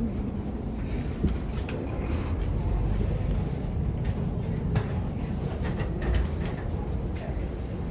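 Steady low rumble of a moving vehicle, with scattered light clicks and knocks.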